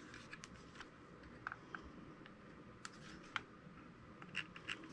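Faint plastic clicks and handling noise from a small RC helicopter being handled, with two faint short beeps about a second and a half in, and a cluster of light clicks near the end.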